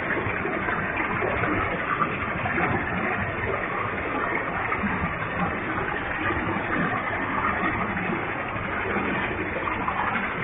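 A waterfall with a large volume of water falling, a steady, unbroken rushing of water.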